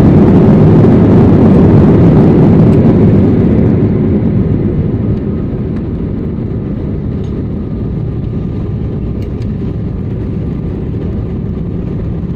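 Jet airliner heard from inside the cabin: a loud engine and airframe rumble that eases off about four seconds in to a steadier, lower hum.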